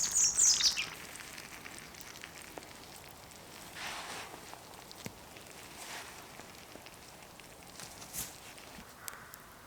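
A songbird sings a short falling phrase at the start, then a campfire crackles faintly, with scattered sharp pops and a couple of soft rustles.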